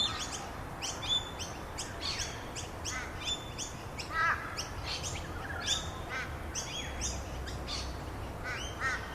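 Many birds calling together in an aviary: a busy mix of short, high chirps and calls. A louder, lower call stands out about four seconds in, and several more come near the end.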